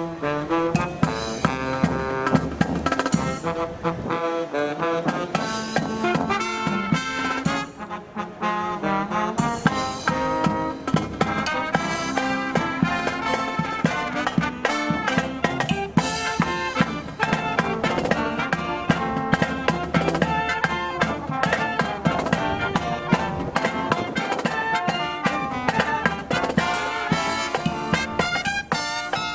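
Live brass band playing with trumpets, trombones and drums: a continuous passage of brass melody over a steady drumbeat.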